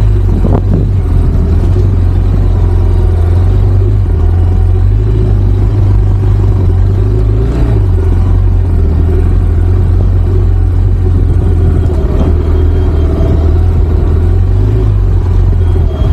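Motorcycle engine running steadily while riding, with a loud, even low rumble throughout.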